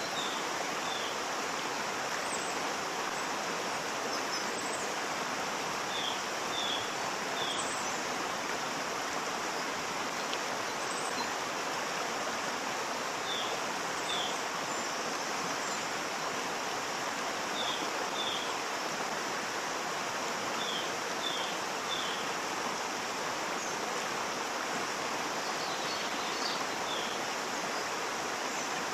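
Waterfall rushing in a steady, unbroken wash of water noise. Short high bird chirps, often in twos or threes, come every few seconds.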